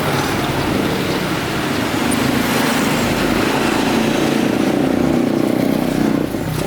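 Motorcycle engine running steadily, dipping slightly in level near the end.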